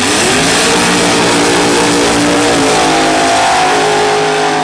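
Loud drag-racing engine of a 2000 Pontiac Firebird drag car at full throttle launching off the line. The pitch climbs sharply in the first second, then drops and climbs again at an upshift about two and a half seconds in.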